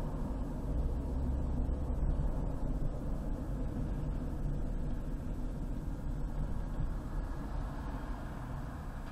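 Car driving on a highway: a steady low rumble of engine and tyre noise, easing slightly near the end.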